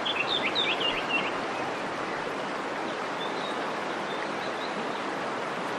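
Steady rush of falling water, with a bird's quick run of high chirps over it in the first second or so and a few faint calls around the middle.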